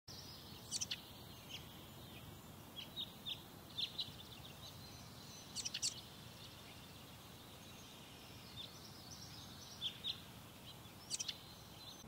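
Wild birds chirping: scattered short, high chirps and a few quick downward-sweeping calls, about every second or two, over a faint steady outdoor hiss.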